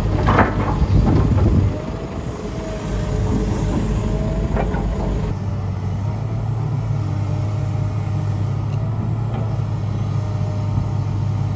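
Heavy diesel construction machinery running steadily, with a series of clanks and rattles of rock and metal in the first two seconds.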